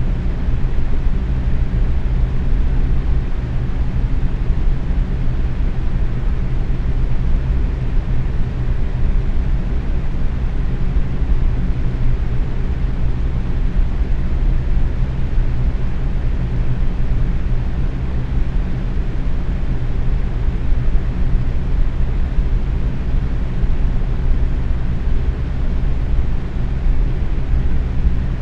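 Box fan running steadily on medium speed: an even whoosh of moving air with a low steady hum from the motor and blades.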